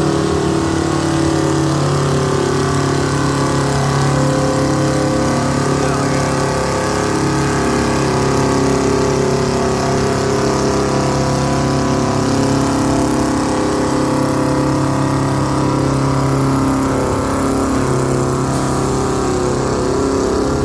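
Antique tractor engine running steadily at an even speed, its note holding for the whole stretch with only small shifts in pitch.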